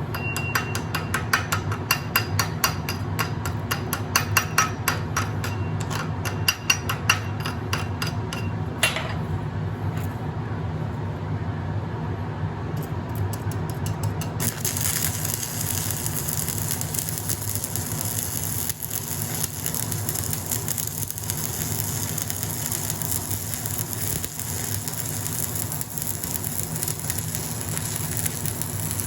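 Rapid metal tapping, about four strikes a second, for the first third. From about halfway on, the steady crackle of a stick-welding arc burning a 1/8 inch rod. A steady low hum runs underneath.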